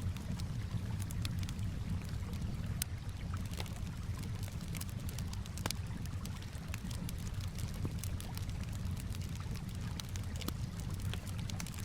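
Campfire crackling, with irregular sharp pops and snaps over a steady low rush of calm water.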